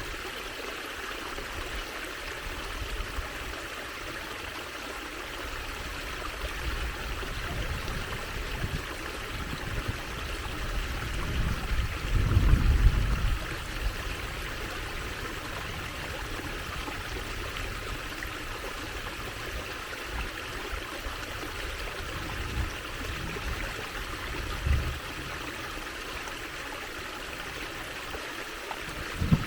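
Water trickling and flowing in a small stream, a steady even rush. A louder low rumble swells and fades about twelve seconds in, with a couple of brief low thumps later.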